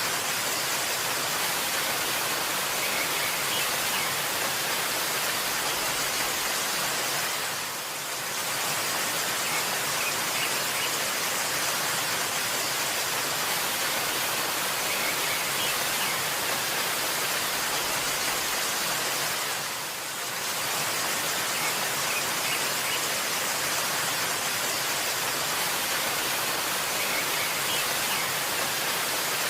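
Waterfall rushing: a steady, dense hiss of falling water that dips briefly twice, with faint bird chirps now and then.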